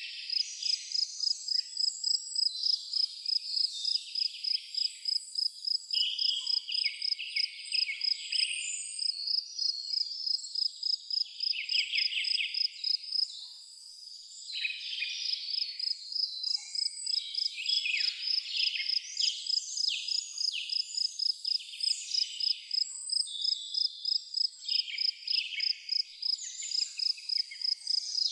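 A cricket chirping in a fast, even rhythm, with birds singing varied phrases over it throughout. The chirping stops briefly about halfway through, then resumes.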